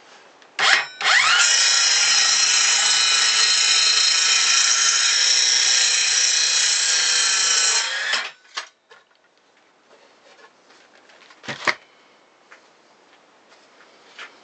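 Makita 5621RD cordless circular saw blipped briefly, then running up to speed with a rising whine and cutting through wood for about seven seconds before stopping abruptly. A single sharp knock follows a few seconds later.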